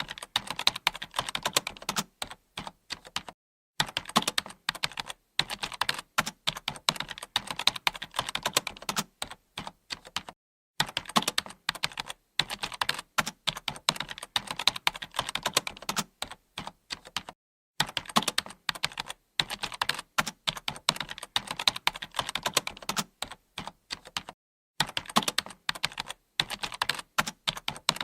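Typing on a computer keyboard: fast runs of keystroke clicks, broken by brief pauses about every seven seconds.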